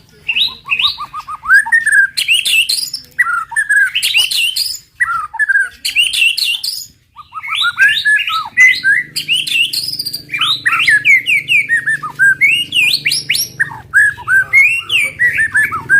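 White-rumped shama singing a fast 'tembakan' volley: rapid runs of sharp whistled notes and chirps sliding up and down in pitch, with a brief pause about seven seconds in.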